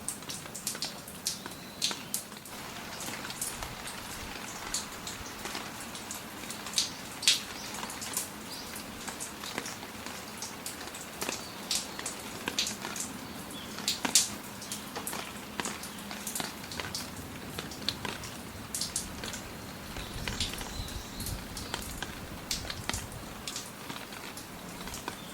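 Rain falling, with large drops landing in sharp, irregular taps over a steady wash of rain.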